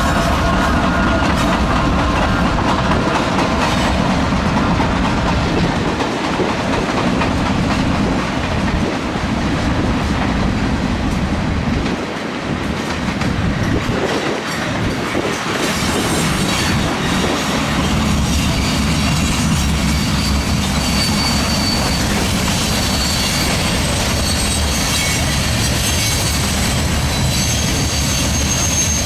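Norfolk Southern freight train rolling past, its wheels clacking over the rail joints with a steady rumble. Thin high-pitched wheel squeal comes in about halfway through and carries on.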